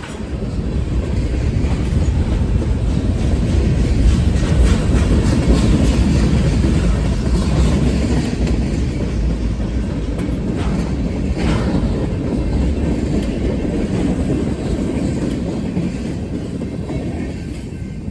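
A train passing close by: a steady rumble of wheels on the rails that builds over the first couple of seconds, is loudest about five seconds in, and slowly eases toward the end.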